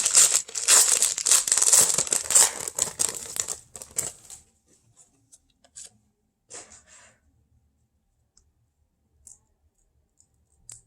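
A trading card pack wrapper being torn open and crinkled for about the first four seconds, then a few faint light ticks as the cards are handled.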